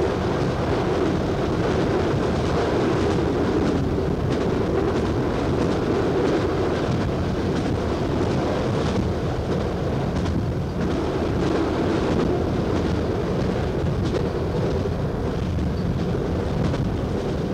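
Steady running noise of a train heard from inside the driver's cab: engine and wheels on rail.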